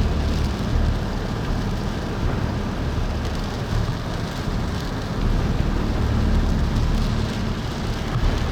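Rain beating steadily on a storm-chase vehicle, with a strong low rumble underneath.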